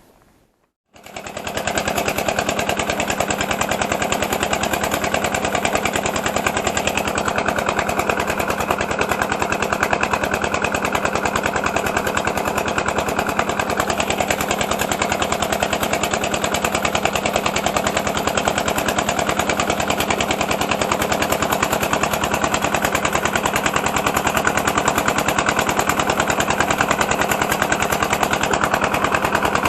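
A small engine running steadily at a constant speed, its exhaust a rapid, even stream of pulses. It starts abruptly about a second in.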